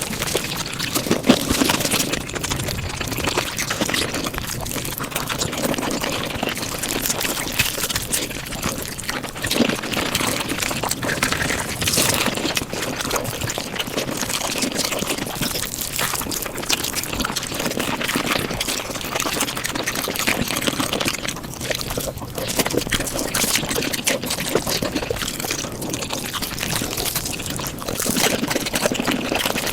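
Mukbang eating sounds (chewing and slurping) played back at five times normal speed, heard as a dense, unbroken run of tiny clicks and crackles.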